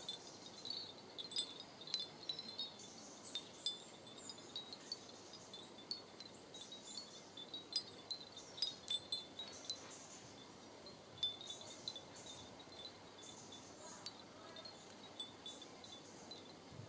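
Frosted glass leaves of a wind chime tinkling against one another: many light, irregular clinks with short high ringing, not exactly musical in pitch, busiest in the first half and thinning out towards the end.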